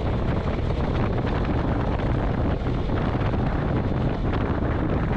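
Steady road and engine noise from a moving vehicle, with wind buffeting the microphone.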